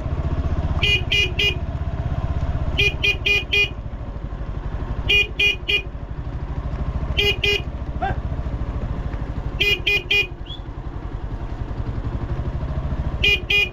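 Motorcycle horn tooted in quick bursts of three or four short beeps, about six bursts, over the motorcycle's engine running; honking to get yaks to move off the road.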